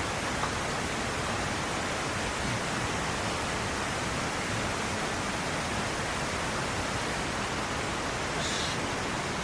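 Steady rushing noise of water, unbroken throughout, with a brief higher hiss about eight and a half seconds in.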